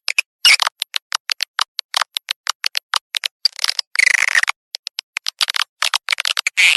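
Swiftlet lure-call recording: rapid clicking and short chirps, several a second, broken by longer twittering calls whose pitch arches and falls, about four seconds in. It is the kind of call played in a swiftlet nesting house to draw birds in to roost.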